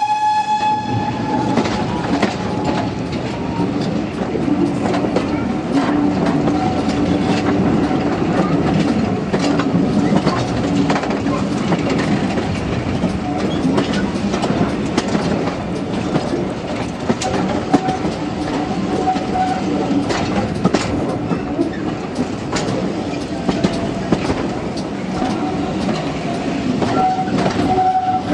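Heritage passenger train running, heard from an open carriage window: a steady rumble with clicks of the wheels over the rail joints. At the start the locomotive's whistle sounds a single high note that dies away after about two seconds.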